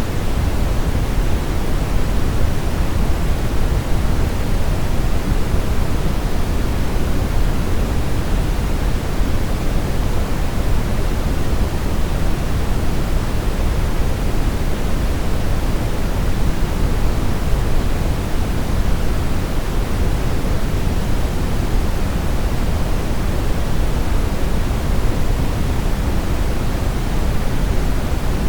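Steady brown noise: an even, deep hiss, strongest in the low end and thinning toward the top, with no changes.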